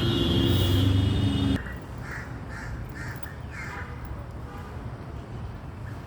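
Loud vehicle noise with steady tones cuts off abruptly about a second and a half in. After it, crows are cawing in a run of short calls.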